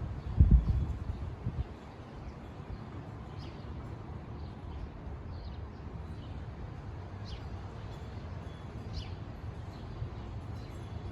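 Backyard ambience: a few faint, short, high bird chirps over a steady low rumble, with a loud low thump about half a second in.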